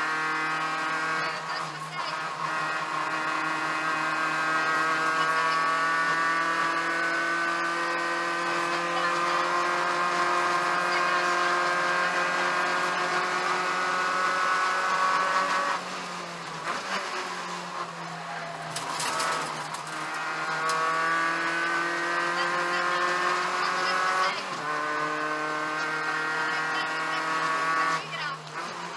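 Peugeot 205 1.9 GTI rally car's four-cylinder engine heard from inside the cabin, pulling hard with the revs climbing. About halfway through the engine note falls away, then it picks up again, with a sudden drop in revs about three-quarters of the way through and another near the end.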